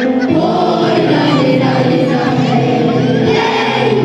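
Group of students singing together in a choir over an instrumental backing track, many voices coming in together shortly after the start.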